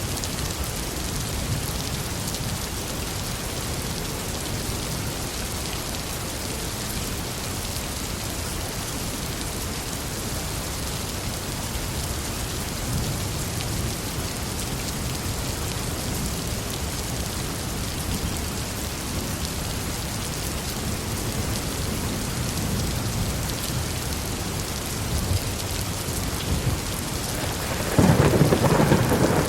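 Heavy rain falling steadily, with low thunder rumbling at intervals and a louder thunderclap rolling in near the end.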